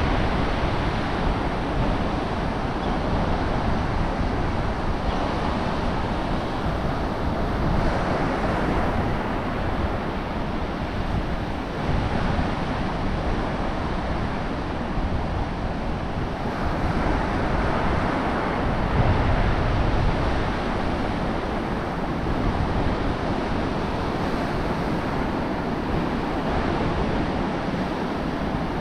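Ocean surf washing ashore in slow swells, with wind buffeting the microphone in a steady low rumble.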